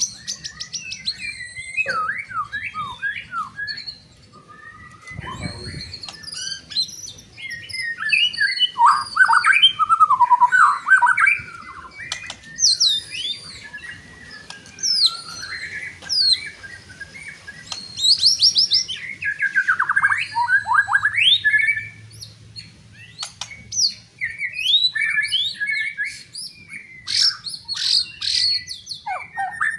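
White-rumped shama (murai batu) singing a loud, varied song of whistled phrases and rapid trills, in bursts separated by short pauses.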